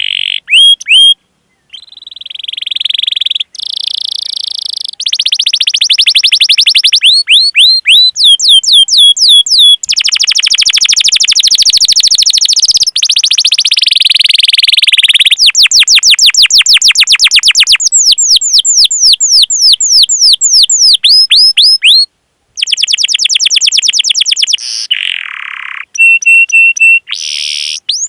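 Canary singing: long runs of rapid, repeated, high falling chirps (the 'cuit cuit' calls) alternating with fast rolling trills. The sections switch abruptly, with two brief silent breaks, about a second and a half in and again near the end.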